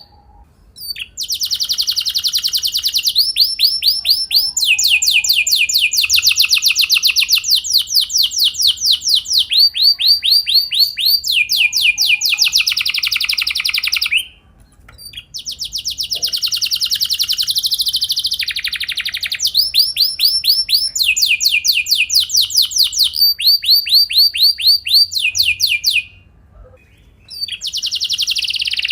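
Domestic canary singing long rolling trills: phrases of rapid repeated high, downward-slurred notes, one running into the next, with short pauses about halfway through and near the end.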